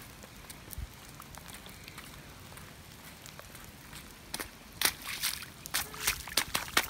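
Steady rain, then from a little over four seconds in a quick run of sharp wet splashes and taps.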